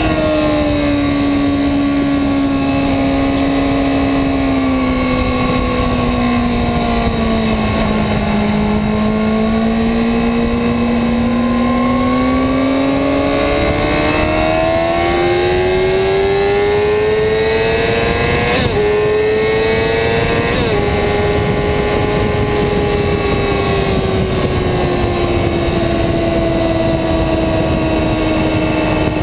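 Yamaha R6's inline-four engine heard from on board at track speed under wind rush. Its pitch sinks for the first several seconds, climbs steadily to a peak about two-thirds of the way through with two quick gear-change steps, then slowly eases off.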